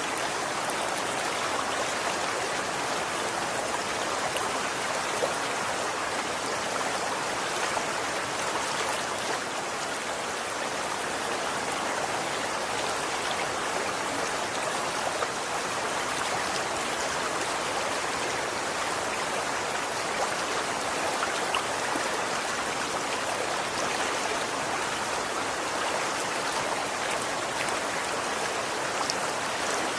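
Running water flowing steadily, an even rushing with small splashes and drips.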